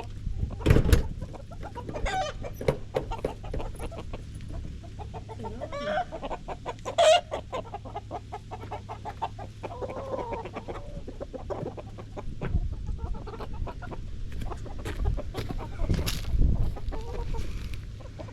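Backyard chickens clucking, with short squawks and calls among the clucks, the loudest about seven seconds in. A sharp knock comes about a second in.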